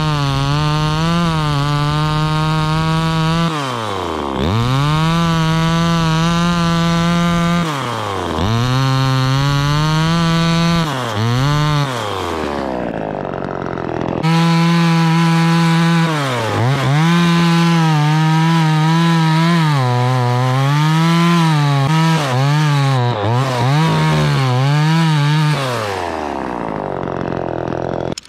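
Gas chainsaw running at high revs, cutting wood. The revs drop and climb back again several times, then fall away near the end.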